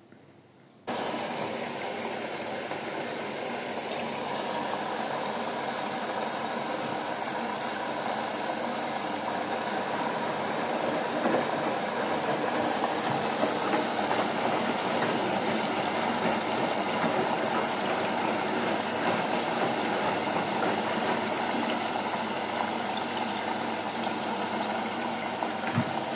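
Bosch Serie 4 washing machine taking in water, a steady rushing noise of water running through the detergent drawer that starts suddenly about a second in.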